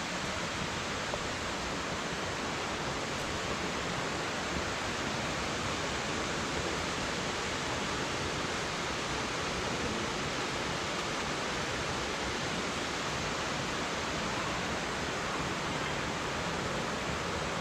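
Waterfall rushing steadily: an even, unbroken rush of falling water.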